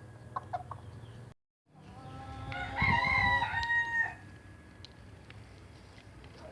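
A rooster crows once, about two and a half seconds in, a single call lasting about a second and a half. A few short clucks come before it, and the sound drops out completely for a moment just before the crow.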